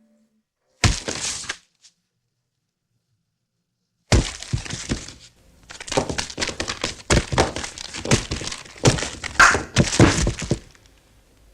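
Crashing and breaking sounds: a short crash about a second in, then, after a silence, a long run of clattering knocks and crashes that dies away near the end.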